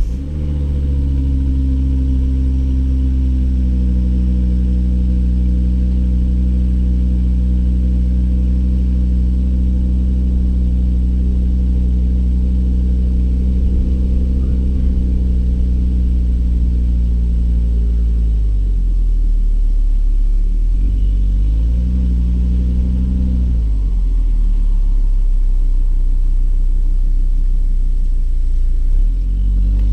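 Volvo V70 R's turbocharged five-cylinder engine and exhaust while driving: a steady low drone for most of the run, then the revs fall, rise and fall again about two-thirds through, and climb again near the end.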